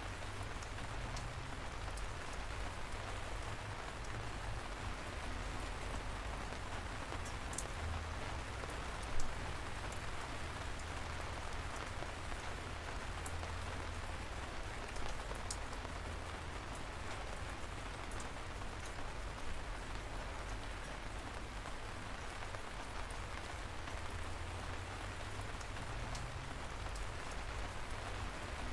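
Steady light rain falling, an even hiss with individual drops ticking now and then and a low rumble underneath; one louder drop hits about nine seconds in.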